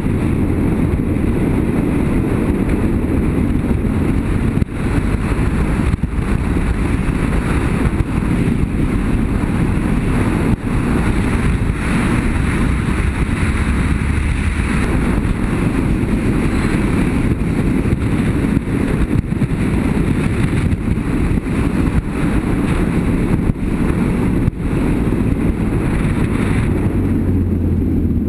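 Motorcycle running at steady riding speed, its engine mixed with constant wind rush on the microphone, with a few brief knocks along the way.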